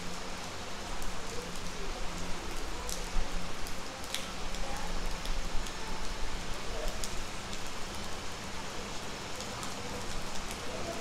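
Steady rain falling, an even hiss with scattered individual drops ticking sharply on nearby surfaces.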